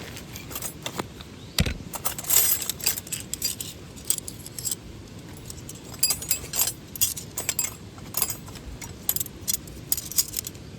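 Small hard objects, likely metal, clinking and jangling as they are handled: many short, irregular clicks over a steady low background hiss.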